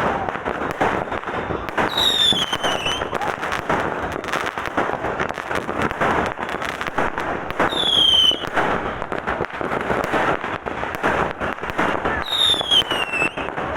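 Fireworks crackling densely and without pause. A whistle falling in pitch sounds three times, about two, eight and twelve and a half seconds in.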